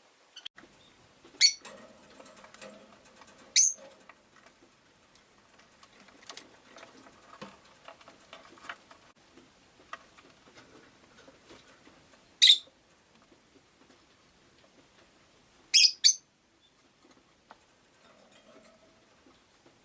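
Rosy-faced lovebird giving short, sharp, loud chirps: one about a second in, another a couple of seconds later, one near the middle, and two in quick succession later on, with faint soft chatter between them.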